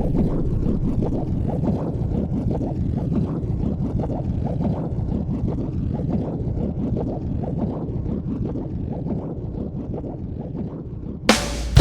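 Limlight WRH-050 washing machine running, water churning and sloshing in the tub as a low, continuous rumble that eases slightly toward the end. Music with drums cuts in just before the end.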